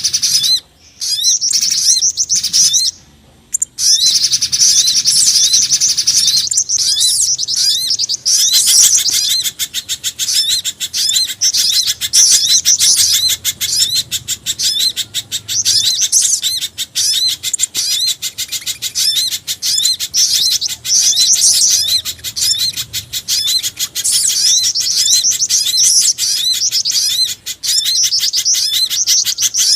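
Bird-lure track of small forest birds' calls, a mix of pijantung gunung (spiderhunter), sogon and jingjing batu calls: a dense run of high, rapid chirps. It breaks off briefly a few times in the first four seconds, then runs on as a fast, unbroken stream.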